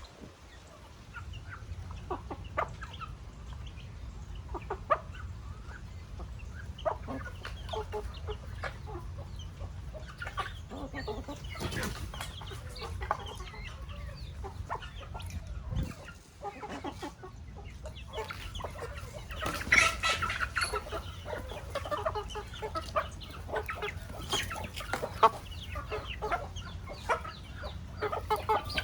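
Chickens clucking, many short calls one after another, with a louder run of calls about twenty seconds in, over a steady low rumble.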